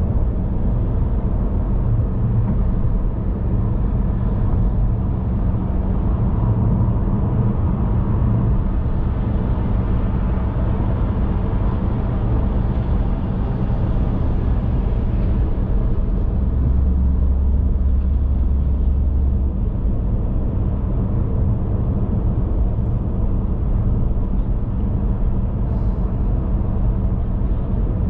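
A car being driven: a steady drone of road and engine noise, mostly a low rumble, with a slightly heavier low hum for a few seconds past the middle.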